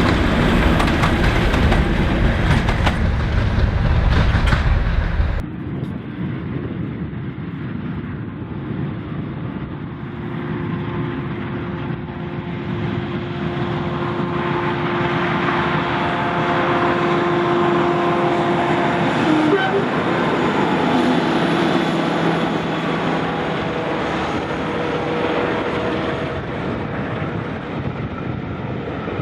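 Heritage diesel locomotive and train running, with a steady engine drone and rail noise. A louder, deep rumbling stretch breaks off abruptly about five seconds in.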